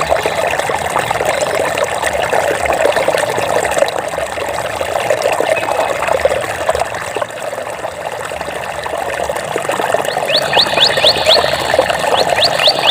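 Water trickling and babbling steadily. Near the end a rapid, high trill of short notes sounds twice over the water.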